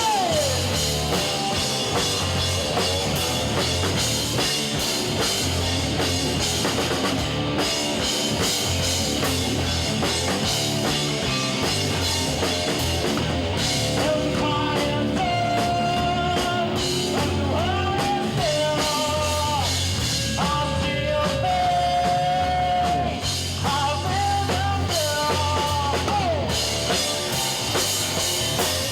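Rock band playing live: drum kit, guitars and bass together, with a melodic lead line of held and bending notes standing out from about halfway through.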